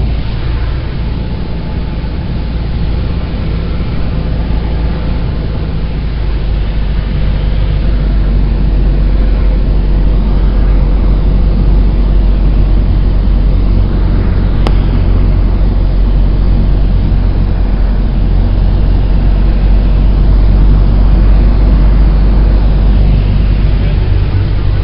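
Cessna 172's four-cylinder piston engine and propeller as a steady, loud drone heard from inside the cabin, growing a little louder partway through. A single sharp click comes about fifteen seconds in.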